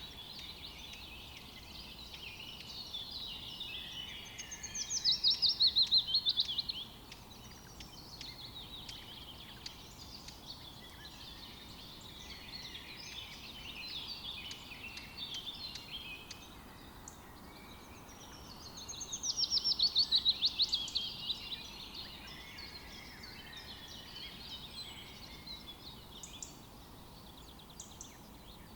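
Several songbirds chirping and singing together, with two loud, rapid trills that fall in pitch and last about two seconds each, one about five seconds in and another about twenty seconds in.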